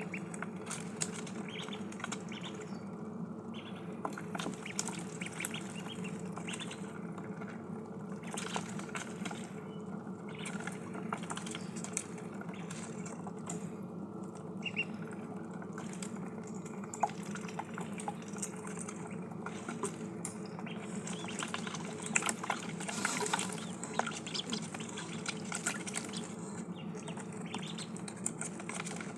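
Ducklings dabbling and drinking at water: small splashes and many quick bill clicks, busier about three-quarters of the way through, over a steady low hum.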